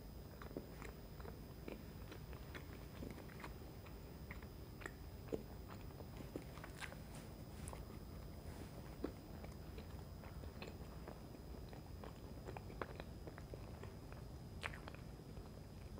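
Close-miked mouth sounds of a person chewing soft chocolate fudge cake: irregular small smacks and clicks, with a sharper click near the end.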